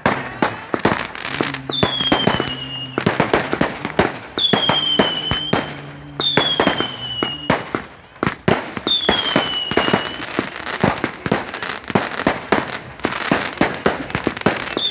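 Fireworks going off in quick succession: a dense string of bangs and crackles, cut through about five times by the shrill whistle of a whistling firework that dips slightly in pitch as it fades.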